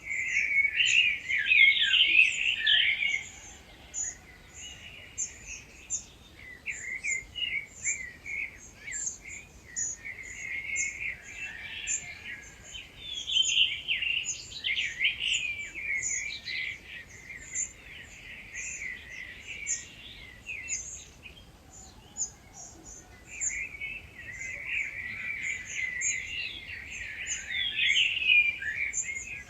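Dawn chorus of several wild birds singing. Bouts of busy, warbling song come and go over a continuous rapid series of very high, thin notes.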